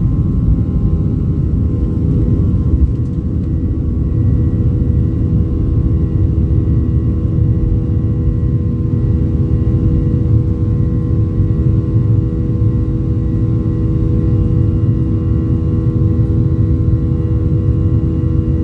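Jet airliner's engines at takeoff power heard from inside the passenger cabin: a loud, steady rumble with several steady humming tones over it.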